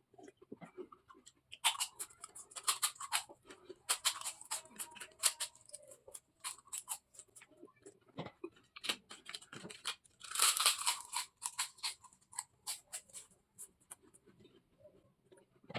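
Crisp papad being bitten, snapped and chewed, giving dry crunching crackles in several quick bursts with short pauses between.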